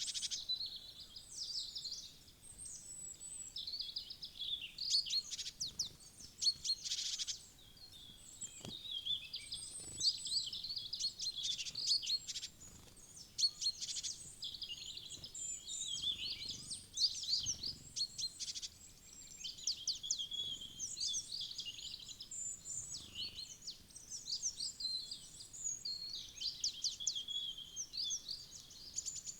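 Small wild birds chirping and twittering continuously, many short high calls overlapping one another.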